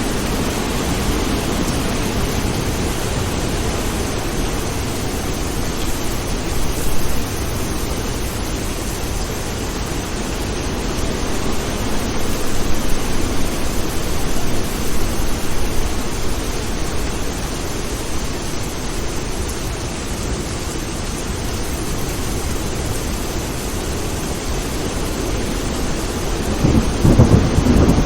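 Steady rain with rolling thunder. The thunder swells a few times, loudest near the end.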